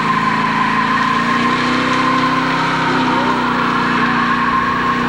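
Chevrolet 350 small-block V8 held at steady high revs, with a steady high whine above the engine note.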